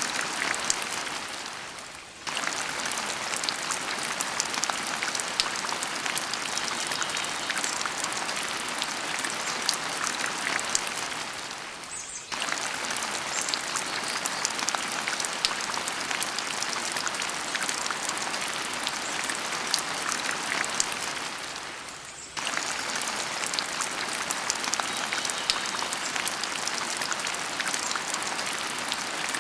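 Steady rain patter, a dense crackle of fine drops. It fades down and cuts straight back in about every ten seconds, like a looped rain recording.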